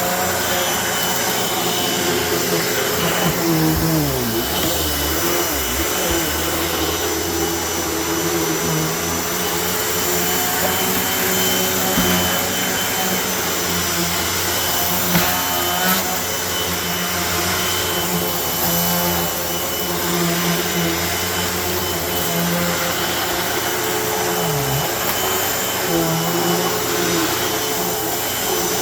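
Vacuum cleaner running steadily over shag carpet. Its motor tone dips in pitch briefly a few times, near the start and again near the end, with a few faint knocks in between.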